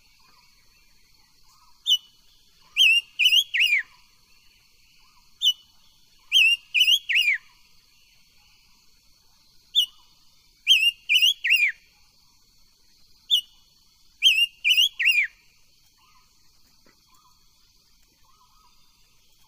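Silver-eared mesia singing the same loud whistled phrase four times, about every four seconds: a single short note, then a quick run of three or four notes that slide downward. A faint steady high tone and soft, low chirps carry on underneath.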